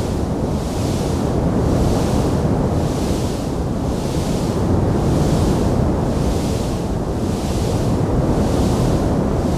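Wood fire burning in a stone fireplace: a steady low rumble with a hiss that swells and fades about once a second, and no distinct crackles.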